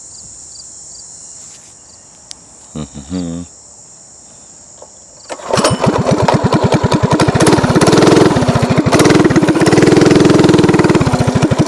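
Mini bike engine starting up about five seconds in, then running with an even, fast putter, revved up twice before dropping back to idle near the end.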